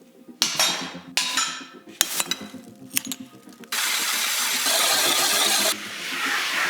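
Woodworking: a few scraping strokes and sharp knocks, then a power tool starting up about halfway through and running steadily, easing off near the end, over quiet background music.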